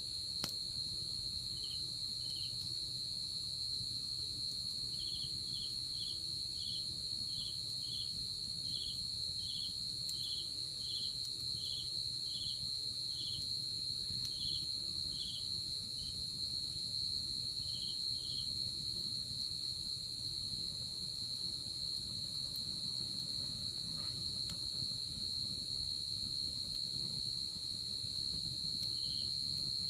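Night-time insect chorus: a continuous high, steady trill with a fainter higher one above it, and a second insect giving short chirps about twice a second that come in stretches and stop.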